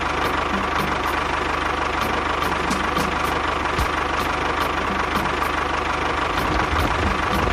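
A small motor running steadily with a held high hum and a light regular ticking about three times a second.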